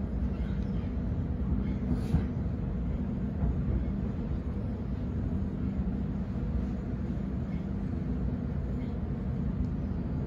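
Steady low rumble of a Sydney Trains Waratah A set double-deck electric train, heard from inside the passenger saloon as it pulls into a station platform. A faint steady hum sits above the rumble.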